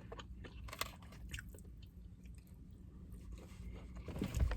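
A person chewing a mouthful of food close to the microphone, with small scattered mouth clicks and a louder sound near the end.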